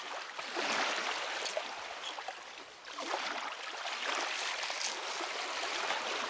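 Water lapping and trickling against the hull of a small boat.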